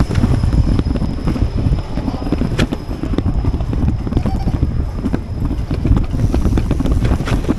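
Wind buffeting the microphone of a moving bicycle, a dense low rumble, with scattered clicks and rattles throughout.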